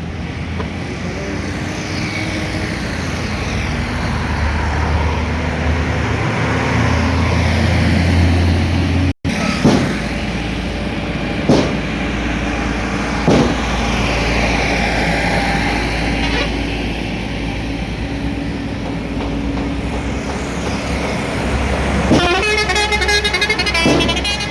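Heavy road traffic: trucks, buses and cars passing with a steady engine rumble and road noise, broken by a few short sharp knocks a couple of seconds apart. Near the end a vehicle horn honks repeatedly in quick pulses.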